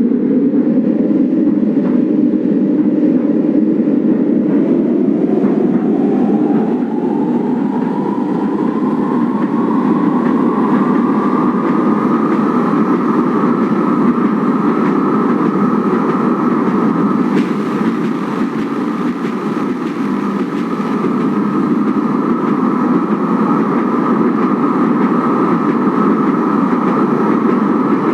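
Kinki Sharyo/Nippon Sharyo 1200-series light-rail train running: its running noise rises in pitch as it picks up speed over roughly the first ten seconds, then holds steady at cruising speed.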